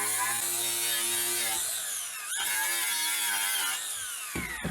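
Electric drill spinning a wire brush against steel, the motor running under load with a scratchy hiss while it strips the part to bare steel. About halfway through the motor dips and speeds back up. Near the end it is let off and spins down.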